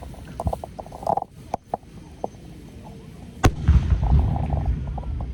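Fireworks going off over the display: several sharp cracks, then a loud bang about three and a half seconds in followed by a long low rumble.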